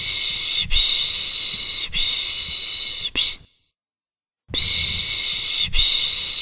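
A person's soothing 'shh' shushing for a baby: a run of long hushes, each a little over a second, then a short one and a pause of about a second just past halfway, after which the hushes start again.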